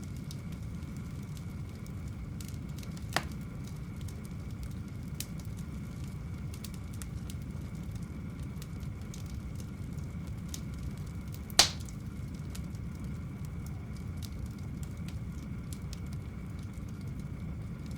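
Wood campfire crackling with scattered small snaps and two sharper pops, one a few seconds in and a louder one about two-thirds through, over a steady low rush.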